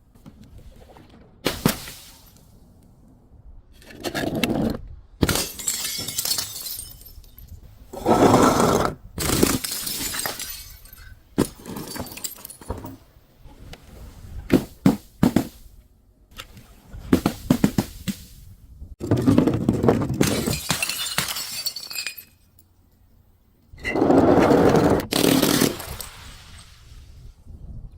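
Glass bottles shattering one after another: a series of about ten crashes, some sharp and brief, others a second or more of breaking and crunching glass.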